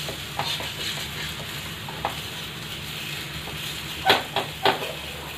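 Semolina batter frying in oil on a flat tawa, sizzling steadily, while a metal spatula scrapes under its edge to loosen it; a few short scrapes, the loudest three close together about four seconds in.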